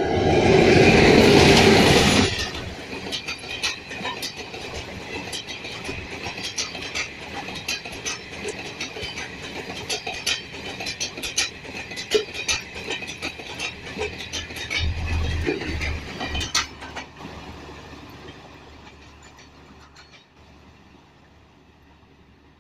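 Electric-locomotive-hauled express passenger train passing close at speed: a loud rush as the locomotive goes by, then a quick clickety-clack of the coach wheels over the rail joints, which fades away over the last several seconds as the train recedes.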